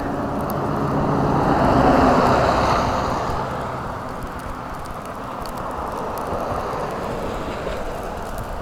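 A vehicle driving past, tyre and engine noise swelling to its loudest about two seconds in and fading away over the next two seconds.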